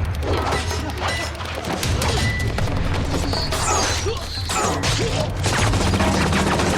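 TV action-scene soundtrack: a run of hits, blows and crashes from a fight over a low, steady bass of dramatic score.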